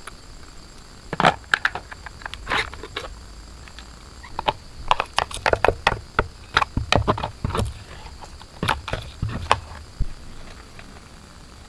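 Irregular clicks and knocks of hand work on parts, in uneven clusters, over a steady high chirring of crickets.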